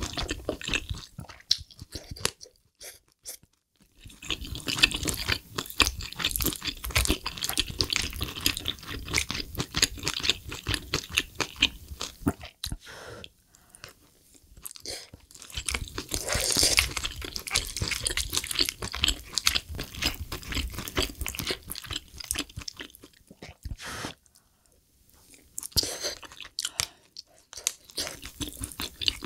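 Close-miked chewing of spicy braised lobster tail meat with melted cheese: rapid wet, sticky mouth clicks and smacks, broken by two short pauses, about three seconds in and again near the end.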